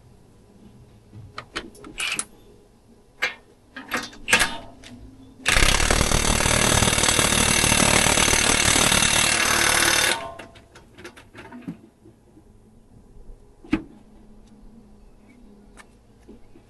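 Impact wrench running in one loud, continuous burst of about four and a half seconds, starting about five seconds in. Before and after it come scattered light clicks and knocks of tools being handled.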